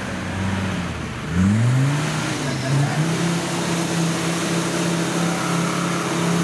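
Off-road 4x4's engine revving up sharply about a second and a half in, then held at steady high revs as the truck climbs a muddy slope under load.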